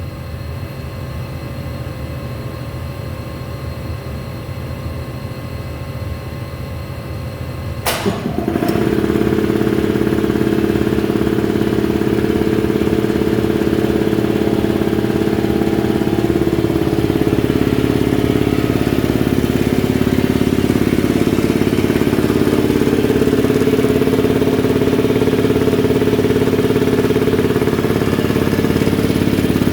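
A steady low hum, then a sharp click about eight seconds in as the Ingersoll Rand T30 air compressor starts. Its electric-motor-driven piston pump then runs loud and steady.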